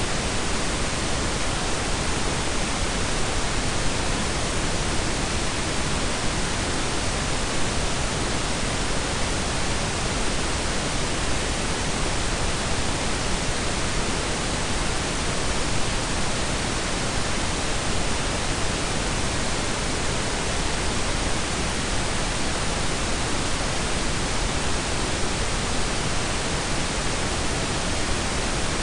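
Steady synthetic blend of pink and brown noise: an even, unchanging hiss with a deep low rumble underneath.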